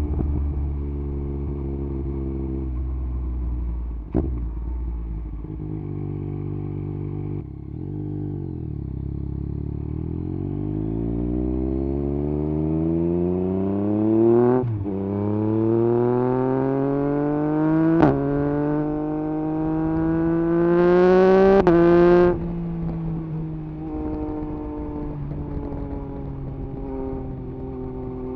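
2021 Yamaha MT-09 SP's 890 cc inline-three engine through an Akrapovič exhaust with the dB killer removed. It holds a steady note for several seconds, then pulls hard with the engine note climbing through three quick upshifts, before backing off to a lower, steadier cruise near the end.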